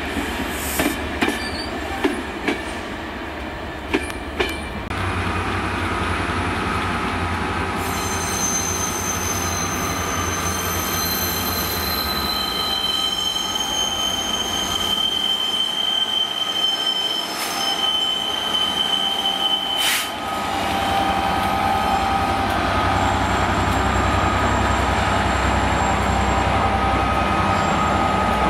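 Locomotive-hauled passenger train with a Class 67 diesel locomotive pulling out on the curving station tracks. The wheels click over rail joints and points for the first few seconds, then squeal high-pitched on the curve for much of the middle. Under this runs the locomotive's low engine drone, which is strongest after about twenty seconds.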